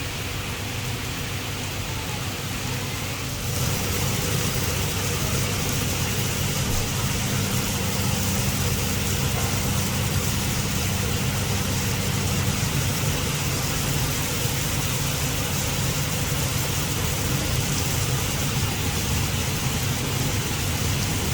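Heavy rain pouring steadily, growing louder about three and a half seconds in, with a steady low engine-like hum underneath.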